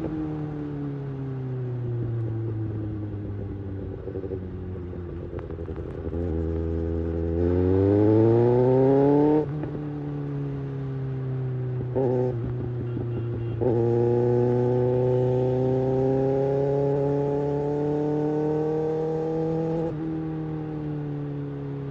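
Kawasaki Ninja ZX-6R inline-four engine through an Ixil slip-on exhaust, under way: the note falls as the bike slows, then climbs louder under hard acceleration and cuts off suddenly. After two short blips it holds a steady, slowly rising note, dropping again near the end.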